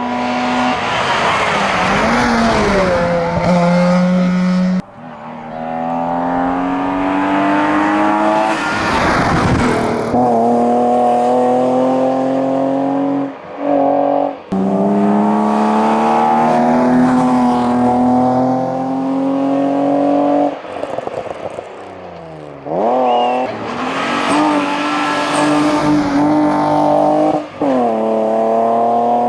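Race cars accelerating flat out on a hillclimb. First an Opel Kadett GSi 16V's four-cylinder revs out. After a break about five seconds in, a BMW 325i's straight-six pulls hard through several gears, its note climbing and then dropping back at each change.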